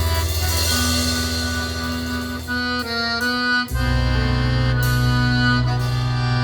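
Live folk band playing an instrumental passage, the accordion holding sustained chords over steady low bass notes, with a chord change a little past halfway.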